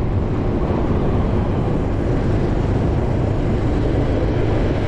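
Steady rumble of wind and road noise while travelling in a moving vehicle, with no clear separate events.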